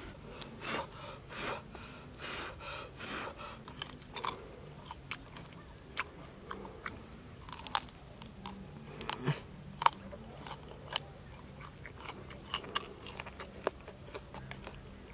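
A raw beetle being bitten and chewed: irregular crisp crunches and clicks as its hard shell cracks between the teeth.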